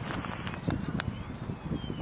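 Electric motor and propeller of a small radio-controlled airplane whining, its pitch rising and then easing down, under heavy wind buffeting on the microphone with a few sharp clicks.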